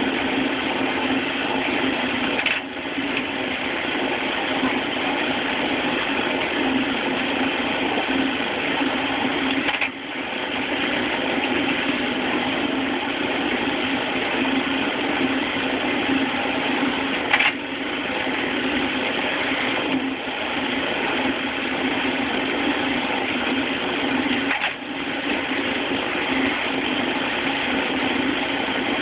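Rack-and-pinion log splitter running with a steady mechanical drone. A brief break or knock interrupts it about five times, every few seconds.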